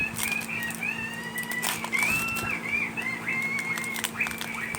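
Birds calling in the background: repeated high whistled notes, some held briefly and some bending up and down. Scattered light crinkling clicks from a foil booster pack being handled run alongside.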